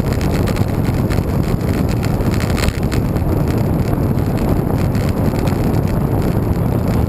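Wind buffeting the microphone of a camera on a moving bicycle: a steady, loud rush heaviest in the low end, with a brief click about two and a half seconds in.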